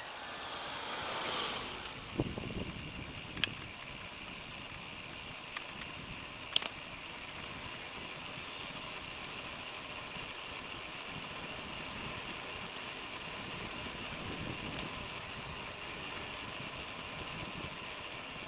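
Steady road and wind noise from a bicycle ride, with a motor vehicle passing during the first two seconds and a few sharp clicks or rattles.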